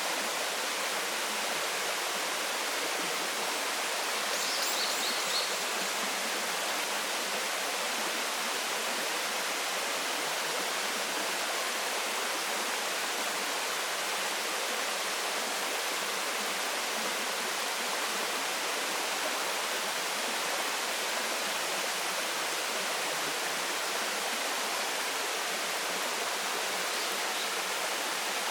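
Waterfall, a steady, even rush of falling water with no change in level. A brief faint high chirp shows through about five seconds in.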